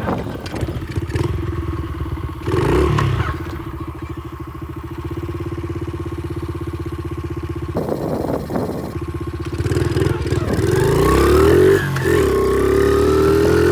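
Honda XR70 pit bike's small single-cylinder four-stroke engine running at a low, steady speed with a couple of short blips of throttle. In the last few seconds it revs up and pulls away, with a brief drop near the end like a gear change.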